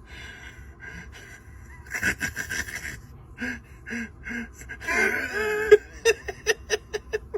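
A man making short vocal noises to attract a bird, with a drawn-out gliding call about five seconds in, then a run of quick, evenly spaced laughing breaths near the end.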